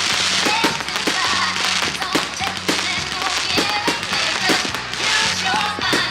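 Fireworks going off in a rapid, dense string of cracks and bangs over loud music with a steady bass line.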